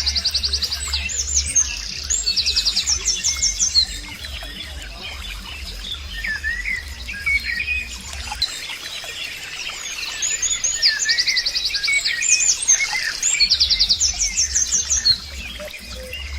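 Birds chirping and singing, with fast trilled phrases and short chirps that come back again and again. A low, rhythmic throb runs underneath and drops out for several seconds in the middle.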